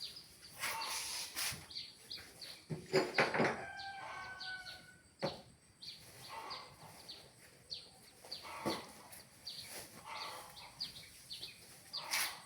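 Scattered short animal calls and clicks, with a longer pitched call about three to four seconds in.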